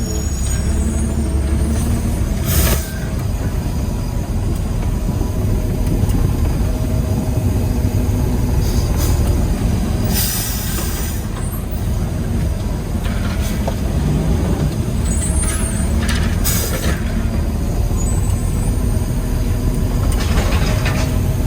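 Peterbilt 320 garbage truck's diesel engine running steadily, with short hisses of released air heard four times, typical of its air brakes.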